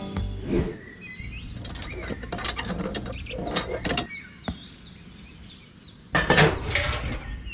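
Small birds chirping, over scattered sharp knocks and clicks, with a louder noisy stretch a little over a second long near the end.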